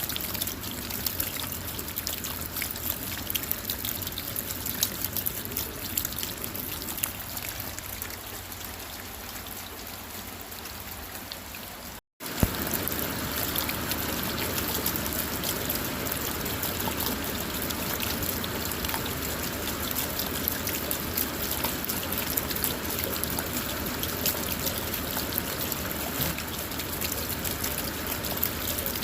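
Steady rain on a car, a dense patter of drops with trickling water. It cuts out for a split second about twelve seconds in and comes back a little louder and fuller.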